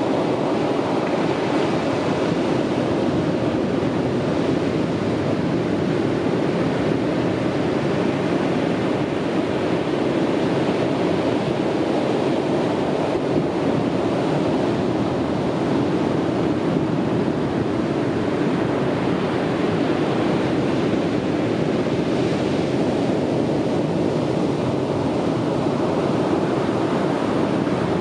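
Sea waves breaking on a beach, a steady continuous surf wash without distinct separate crashes.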